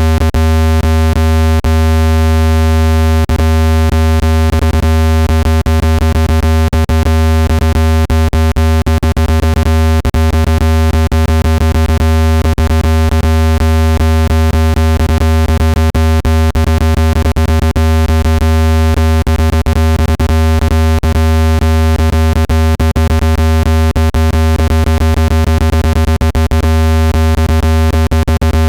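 Loud, steady synthetic speaker-cleaning tone: a deep electronic hum with many fixed higher tones stacked over it, peppered with frequent clicks. It is meant to be played at maximum volume so its vibrations shake dust out of a phone speaker.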